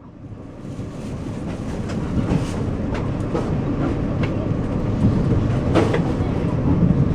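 Passenger train running on the line, heard from inside the carriage: a steady low rumble with a few sharp, irregular clicks of the wheels over the rails. It rises from quiet over the first two seconds.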